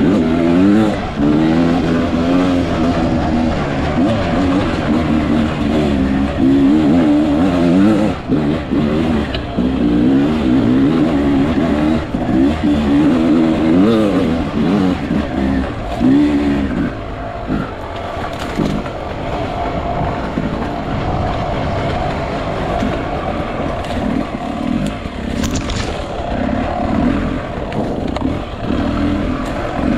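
Beta 300 RR two-stroke enduro motorcycle engine under changing throttle while riding off-road. Its pitch rises and falls quickly over the first half, then runs lower and steadier.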